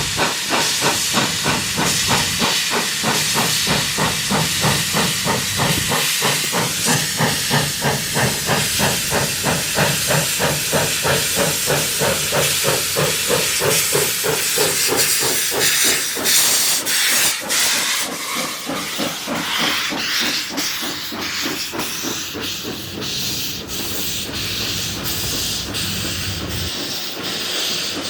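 Arcade & Attica 2-8-0 Consolidation steam locomotive No. 18 working under steam, its exhaust chuffing about four times a second. The beat fades in the last third as the engine moves off.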